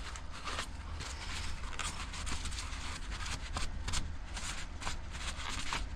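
Rubbing and scraping of hand cleaning, scrubbing grime off a weed eater's engine housing around the carburetor: an irregular run of short scratchy strokes.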